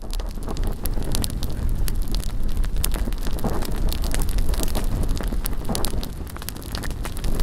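Large bonfire burning, its wood crackling and popping rapidly and without a break, over a low rumble.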